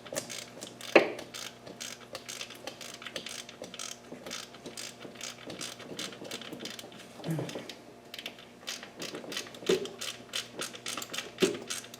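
Flex-head socket ratchet clicking in quick runs as bolts are run in with a 10 mm deep socket. There is a sharper knock about a second in.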